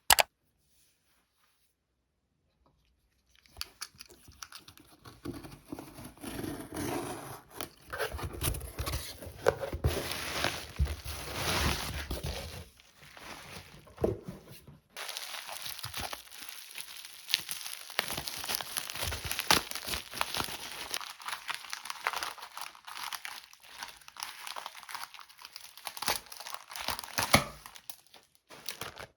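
Parcel packaging being torn open and crinkled by hand: irregular rustling, tearing and crackling of tape, paper and plastic wrap, starting a few seconds in and running on with many sharp little clicks.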